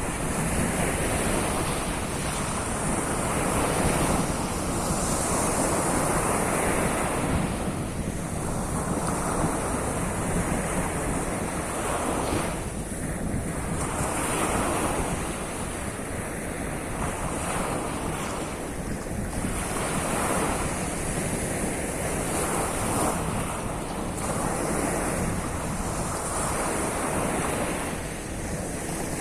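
Surf on the Sea of Azov shore: waves breaking and washing in a continuous roar that swells and eases every few seconds. Wind rumbles on the microphone underneath.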